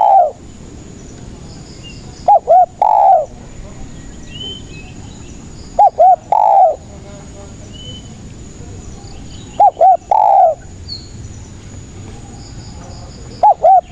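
Spotted dove (tekukur) cooing, repeating its phrase of two short notes and a longer falling note about every four seconds. Faint chirps of small birds sound between the phrases.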